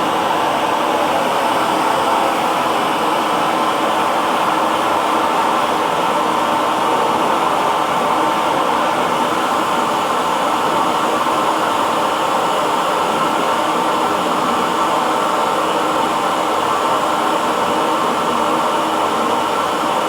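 Hair dryer running steadily, a constant whooshing blow of air with a faint motor hum.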